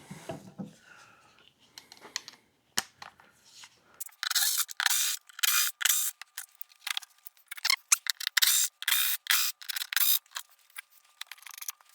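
A rapid, irregular series of short, scratchy clicks and scrapes, about two a second, from hand tools and fasteners being worked to pull out the car's cargo-area carpet. The sounds thicken from about four seconds in.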